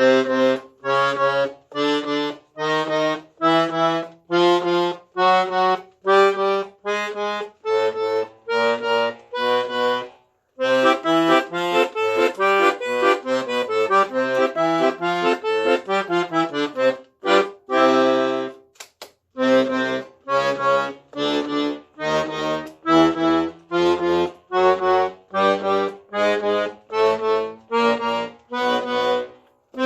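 Guerrini & Sons piano accordion's left-hand bass side being played: bass buttons and chord buttons sounding in a bass-and-chord accompaniment pattern. Mostly short detached notes about two a second, broken by two brief pauses.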